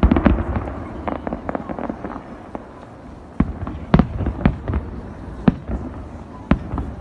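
Fireworks display: aerial shells going off in a string of sharp bangs, with bursts of crackling in between and a few louder single bangs later on.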